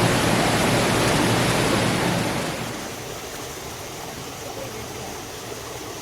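Steady rushing water of a waterfall, an even hiss-like noise with no distinct tones. It drops clearly in level about two and a half seconds in, then carries on steadily.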